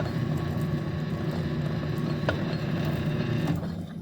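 Atlas QC54 10-inch metal lathe running with its back gears engaged, a steady mechanical hum with one sharp click a little past two seconds in. It stops and runs down near the end.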